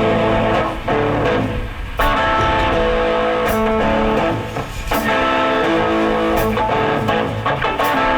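Live band playing an instrumental passage led by guitar chords, with strong accents about two seconds in and again about five seconds in.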